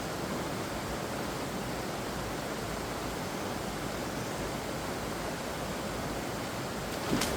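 Steady rush of water, an even hiss with no rhythm, broken by one brief sharp click near the end.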